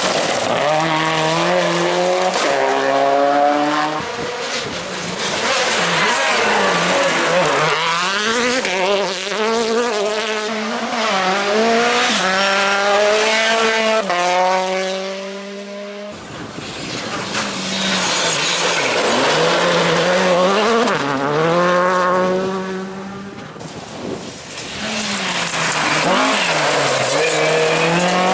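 Turbocharged four-cylinder World Rally Car engines at full throttle, pitch climbing and dropping sharply through quick upshifts, lifts and downshifts, with tyre and gravel noise. Several cars' passes are cut together, with sudden changes about 4, 16 and 23 seconds in.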